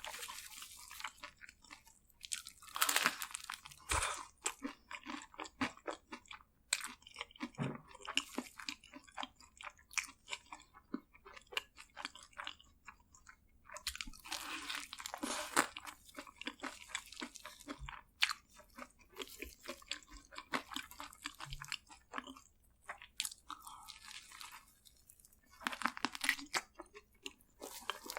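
Close-miked crunching and chewing of crispy fried food: crackly bites in spells, with quieter wet chewing between them.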